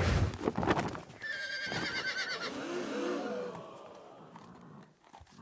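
A horse whinnying with a wavering call about a second in, followed by fainter, lower calls that die away.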